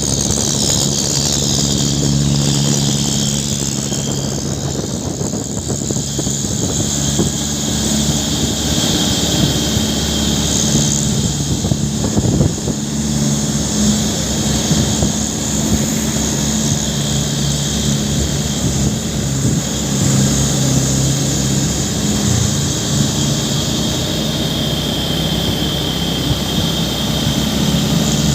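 Heavy diesel truck engine running at a steady, low drone, with a steady high whine above it.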